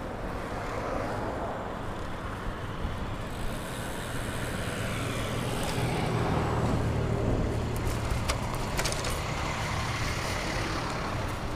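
Road traffic: cars driving past on a busy road, with engine and tyre noise building a few seconds in and easing near the end. A few light clicks come about two-thirds of the way through.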